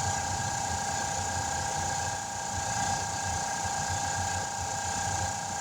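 A motor running steadily, a low rumble under a few constant humming tones, with no change in pace.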